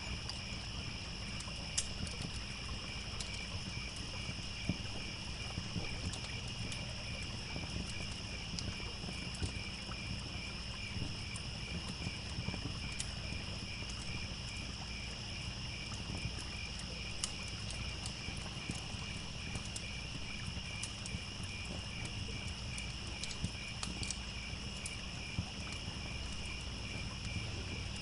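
Crickets chirping in a steady pulsing chorus over a higher continuous insect trill, with scattered sharp pops and snaps from a crackling wood fire and a low steady rush of a trickling stream underneath.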